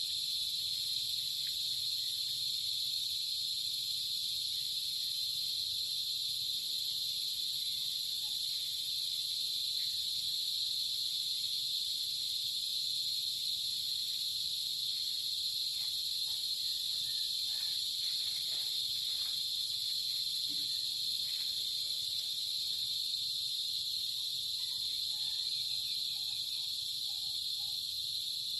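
A steady insect chorus: a dense, high, unbroken trill that holds the same level throughout. A few faint short calls sound near the end.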